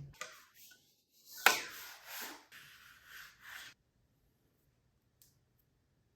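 Hands handling unboxing packaging and parts: a sharp click or tap about a second and a half in, then about two seconds of rubbing and rustling, then silence.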